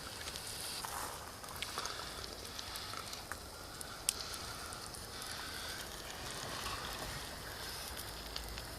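Gas burner under a model steam traction engine's boiler hissing steadily while steam pressure builds, with a sharp click about four seconds in.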